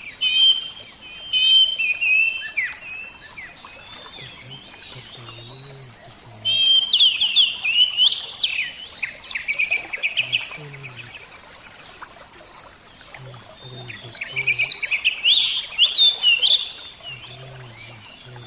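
Oriental magpie-robin (kacer) singing in three bursts of rapid, varied chirping phrases, one at the start, one from about six to ten seconds in, and one from about fourteen to seventeen seconds in, with quieter gaps between them.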